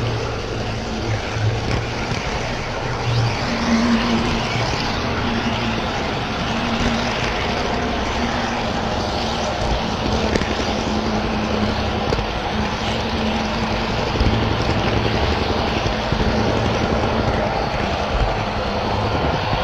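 HO scale model trains running on the layout: a steady rumble and whir of small motors and wheels on track, with a low hum that comes and goes.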